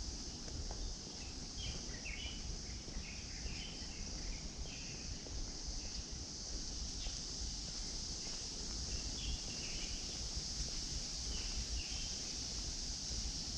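A steady, high-pitched insect drone with short bird chirps scattered through it, over a low rumble.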